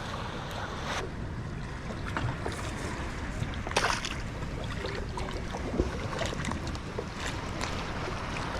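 Steady rumble of wind and water on an action camera's microphone, with a couple of short splashes about four and six seconds in.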